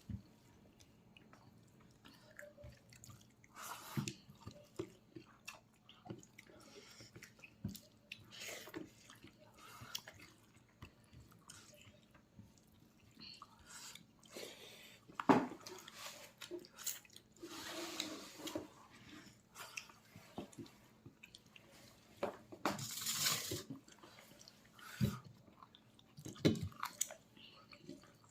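A person chewing and biting pork leg close to the microphone, with irregular wet, smacking mouth sounds and small clicks. There is one sharp, louder click about halfway through and a longer noisy burst a few seconds after it.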